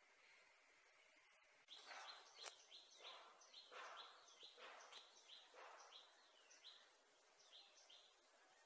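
Faint bird chirping: a quick string of short, repeated calls that begins about two seconds in and thins out near the end.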